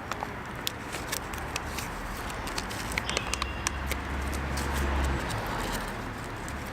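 Packaging and small parts being handled, with scattered clicks and crackles, while searching for a foam sticker pad. A low rumble swells about four seconds in and fades a second and a half later.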